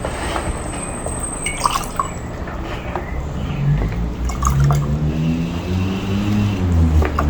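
Water being poured into a container of sugar to mix hummingbird syrup, a steady pouring with a few small clicks. A low, wavering pitched sound joins in from about halfway through.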